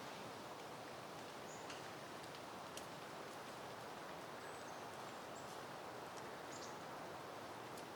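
Soft, steady wind rustling through foliage, with a few faint, short, high bird chirps scattered through it.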